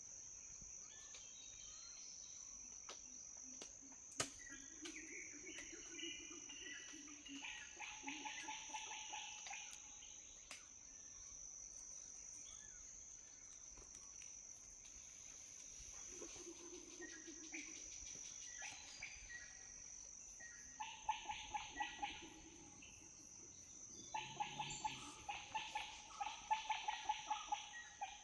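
Forest ambience: a steady high-pitched insect drone, with bursts of rapid, repeated animal calls that are loudest in the last few seconds.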